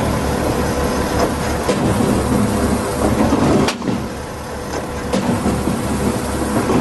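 Skid-steer loader engine running steadily under a hydraulic post driver attachment, with two sharp knocks of the driver's hammer striking a post, about a second and a half apart, past the middle.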